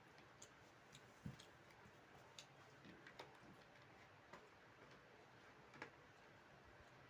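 Faint, quiet eating sounds: scattered soft clicks and smacks a second or so apart, with one low thump about a second in.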